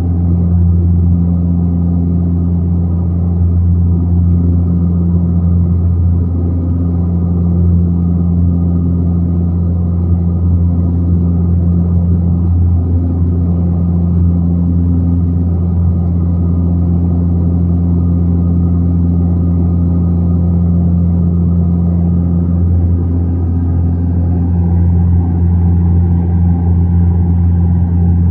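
Aircraft engines droning steadily in flight: a loud, even low hum with a few steady tones above it and no change in pitch.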